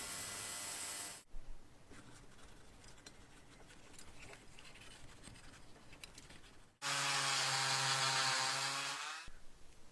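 A steady hiss cuts off about a second in, followed by faint light handling sounds. Near the end a small power tool runs with a steady pitched hum for about two and a half seconds, then stops.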